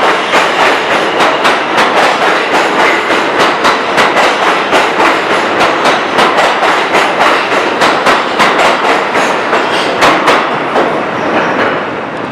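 R160A-2 New York City subway train running out of the station, its wheels clattering over rail joints about three times a second. The sound grows quieter near the end.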